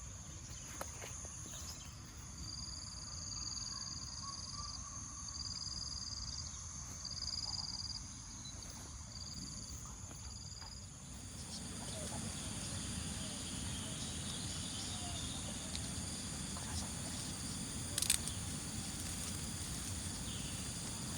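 Steady high-pitched insect chorus, with five level high notes about a second and a half apart in the first half, and a single sharp click near the end.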